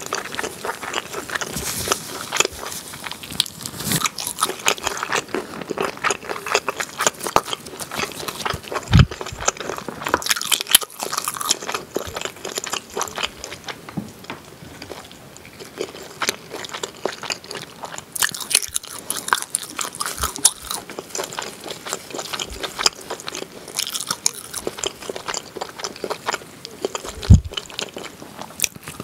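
Close-miked eating sounds: chewing, biting and wet smacking on sticky glazed back ribs and melted cheese, in a steady stream of small clicks. A dull thump about nine seconds in and a louder one near the end.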